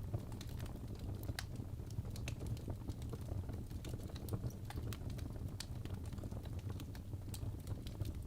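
Wood fire crackling: burning logs in a fireplace giving many small irregular snaps and pops over a steady low rumble of the flames.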